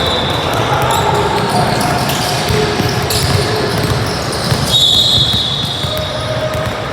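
Basketball game in a gym: a basketball bouncing on the court among a hubbub of voices, with a high steady tone held for over a second about two-thirds of the way through.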